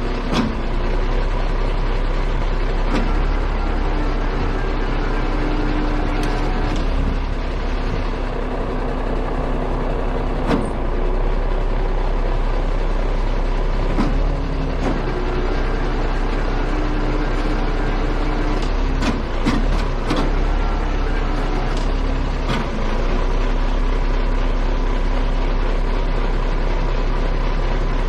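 Heavy truck engine running with a steady low rumble, with a few sharp clicks and knocks now and then.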